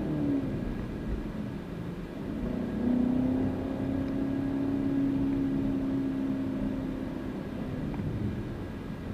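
Chevrolet Camaro's engine with road noise while driving. The engine eases off just after the start, then holds a steady drone at cruising speed for several seconds before easing again near the end.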